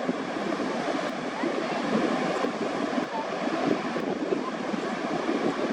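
Steady rush of surf washing onto a beach.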